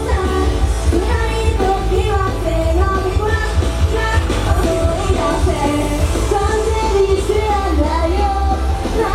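Live J-pop idol song: young women's voices singing a melody over loud pop music with a heavy, steady bass.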